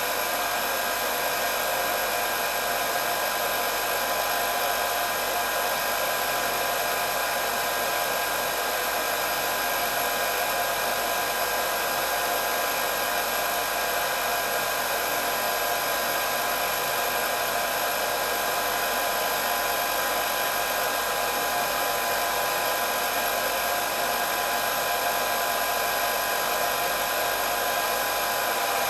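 Hair dryer running steadily: an even rush of blowing air with a steady high motor whine over it.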